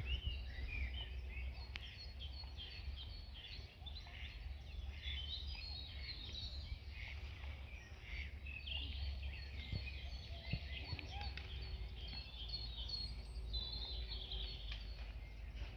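Songbirds singing and chirping together, many short overlapping calls and trills, over a steady low rumble.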